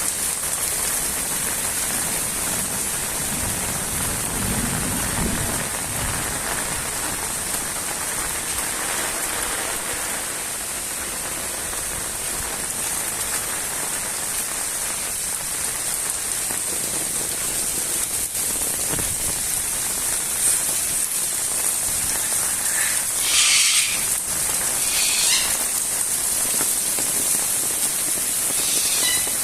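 Fairly heavy rain falling steadily and pattering on surfaces, with a few short louder sounds about two-thirds of the way through.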